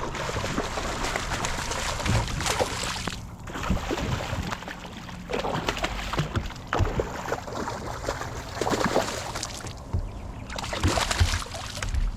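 Water sloshing and splashing against a kayak's hull, uneven, with short lulls.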